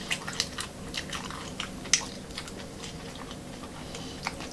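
Close-miked chewing and biting of a filled sourdough bread bowl: irregular wet clicks and crunches, busiest in the first two seconds with one sharp crunch about two seconds in, then sparser.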